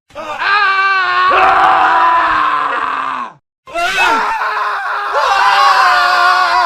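Men screaming in a string of separate clips with abrupt cuts: one scream, a brief silence about halfway through, then several screams overlapping.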